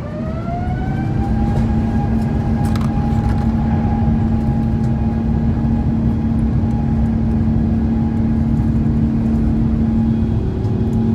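Airbus A350-900's Rolls-Royce Trent XWB turbofans spooling up to takeoff thrust: a whine rises in pitch over the first second and a half, then holds steady over loud, dense engine noise.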